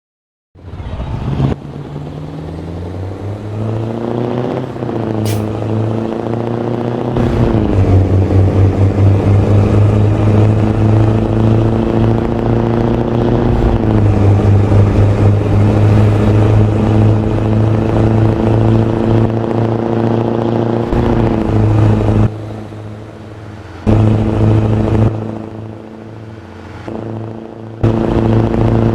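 V8 engine starting up and running, its pitch rising over the first few seconds and then holding steady at a loud, even run. The level drops and jumps back abruptly twice near the end.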